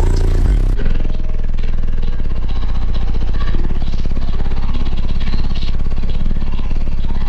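High-powered car audio subwoofers playing deep bass at very high volume: a low, steady, rapidly throbbing note with little above it.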